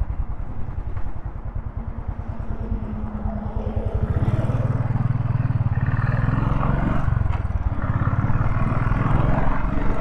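Royal Enfield Thunderbird 500's single-cylinder engine running at low revs with an even pulse. About four seconds in it gets louder as revs and road noise rise.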